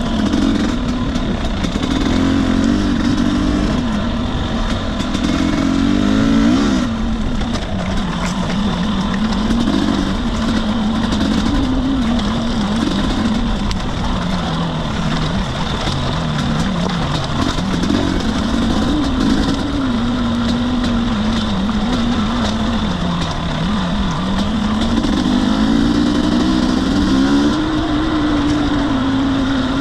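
Husqvarna TE250i two-stroke single-cylinder dirt bike engine running under way, its revs rising and falling again and again with the throttle.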